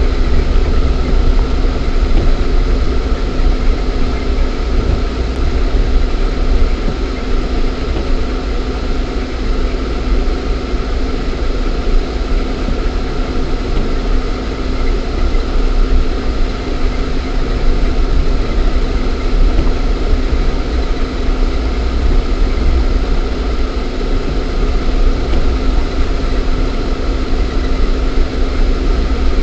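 Lada Niva 1.7i's four-cylinder petrol engine running at a steady speed with deep low rumble, as heard inside the cabin through a dash camera.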